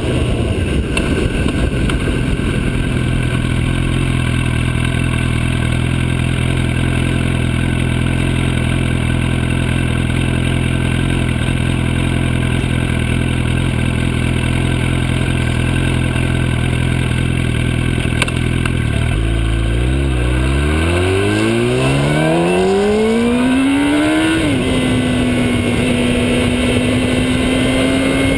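Motorcycle engine running at a steady low speed, then about nineteen seconds in it revs up smoothly for about five seconds, drops briefly as if shifting gear, and holds a steady higher note.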